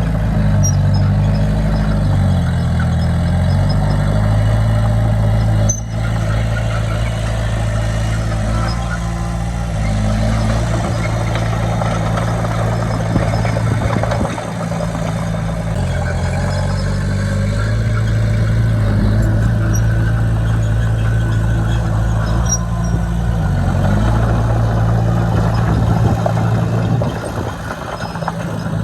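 Heavy diesel engine of earthmoving equipment running, its revs rising and falling several times as it works, with a sudden break in the sound about six seconds in.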